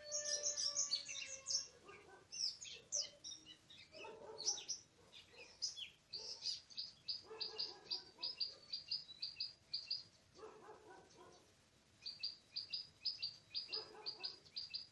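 Oriental magpie-robin chirping: quick high notes, then runs of rapid repeated chirps, about six a second, twice. Short lower, harsher bursts come every few seconds.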